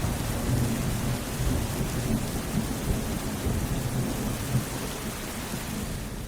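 Steady rain with a low, rolling rumble of thunder underneath: a thunderstorm sound effect.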